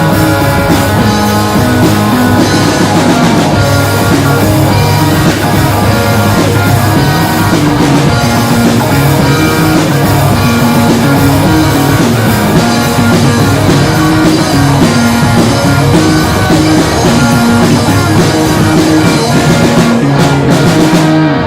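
Rock band playing live on two electric guitars, bass guitar and drum kit, with a repeating riff. The band stops together abruptly at the very end, closing the song.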